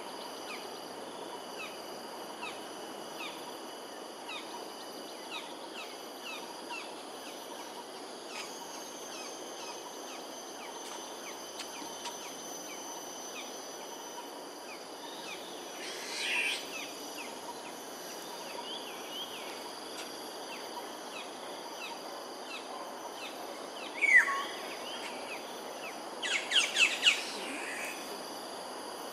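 Wild birds calling: scattered short chirps throughout, a louder call about halfway, then near the end a loud falling whistle and a quick run of about five sharp notes. Under them runs a steady high-pitched drone and a low background hum.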